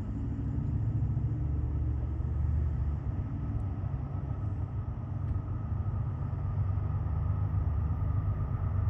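Low, steady rumble of a diesel freight train heard from a distance as it approaches, slowly growing louder, with a faint steady whine above it.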